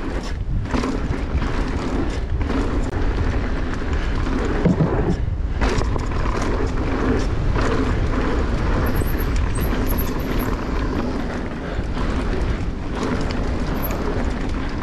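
Mountain bike riding fast down a dirt singletrack trail: wind rushing over the microphone and tyres rolling on dirt, with brief knocks and rattles from the bike.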